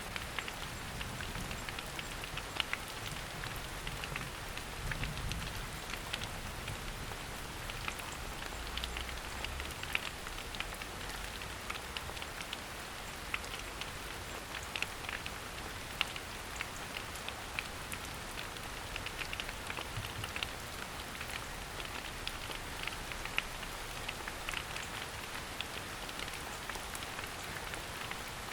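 Steady rain falling through a forest, with many separate drops pattering and ticking on leaves.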